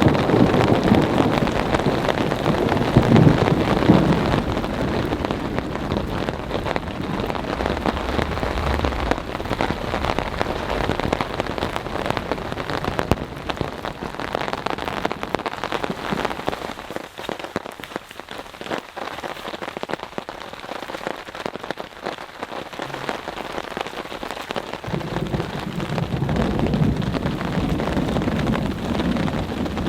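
Heavy rain falling steadily in a thunderstorm, easing somewhat past the middle. Low rumbles of thunder swell during the first few seconds and again near the end.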